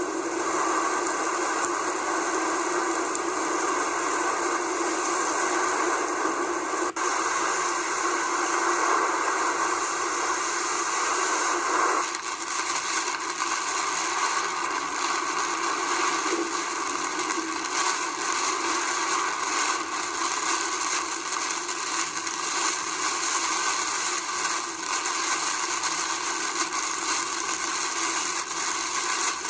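Heavy rain pouring down in a steady, dense hiss, with no thunder heard. The sound changes suddenly partway through.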